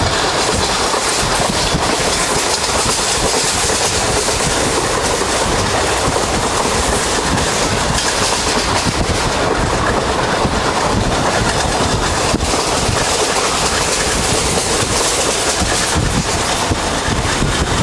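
Passenger train running at speed, heard from on board: a steady, loud rush and rumble of the wheels on the track.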